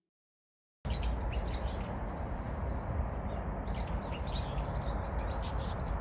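Many small birds chirping and twittering in quick, overlapping short calls, starting about a second in, over a steady low rumble.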